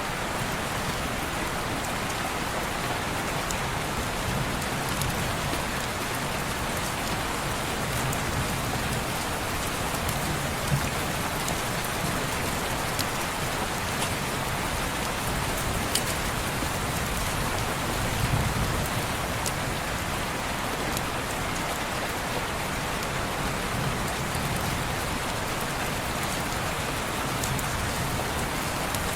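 Steady rain on window glass: a continuous even hiss with scattered sharp ticks and a soft low rumble that rises and falls.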